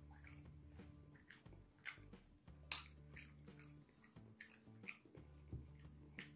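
A person chewing a mouthful of beef rendang and rice close to the microphone, quiet, with soft irregular wet clicks of the mouth, about seven in all.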